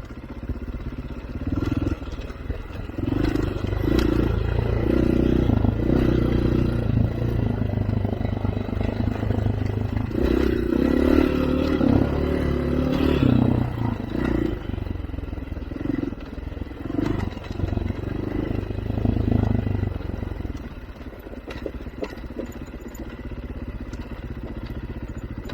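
Off-road vehicle engine revving up and down in repeated surges under load, with clattering knocks over the rough trail; it settles to a lower, steadier run for the last few seconds.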